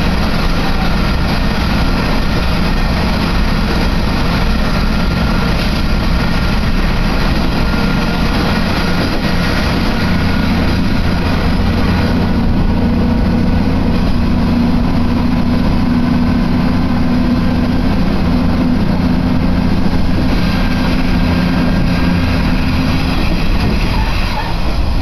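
Diesel railcar running, heard from inside the passenger cabin: a steady engine drone under the train's running noise.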